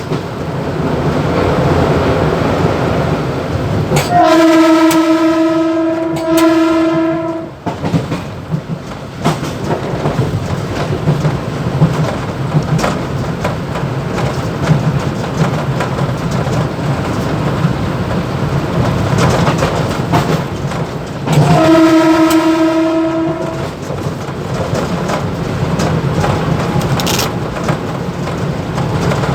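Mumbai suburban EMU local train running, with steady rumble and rattle in the motorman's cab. Its horn sounds twice: a long two-tone blast about four seconds in and a shorter one a little past twenty seconds in.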